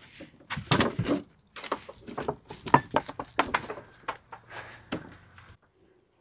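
Irregular knocks and clunks of sauna stones being handled and set down, stopping shortly before the end.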